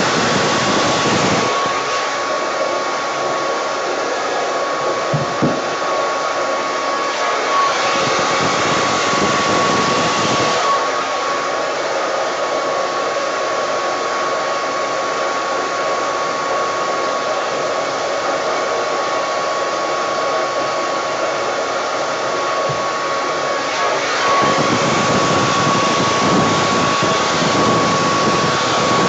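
Hair dryer running steadily with a steady whine over its rush of air, blowing wet pour paint across a canvas. The air gets fuller and deeper about eight seconds in and again for the last few seconds, as if it is held nearer or aimed differently.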